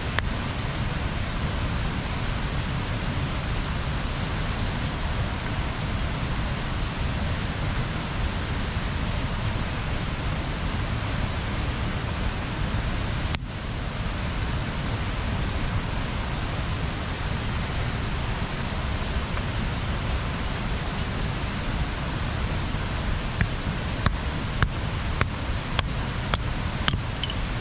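Bonfire burning: a steady rushing noise, with one sharp click about halfway and a few sharp crackling pops in the last few seconds.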